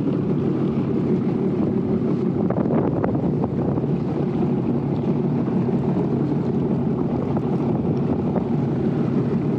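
Sea-Doo personal watercraft engine running steadily while under way, with wind buffeting the microphone.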